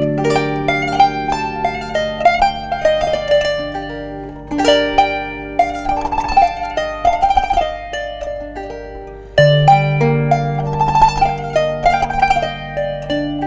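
Kanun, the Turkish plucked zither, playing a melody of quick plucked notes over ringing low strings, with a fresh low note struck about nine and a half seconds in.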